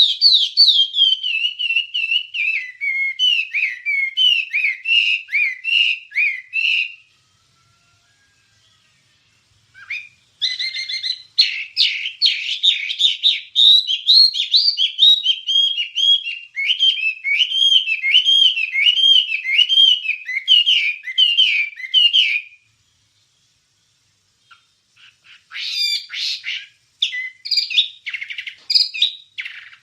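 Wambie bird singing: long runs of quick, repeated chirping notes that swoop up and down in pitch, breaking off about 7 seconds in, resuming around 10 seconds, pausing again just after 22 seconds and returning near the end.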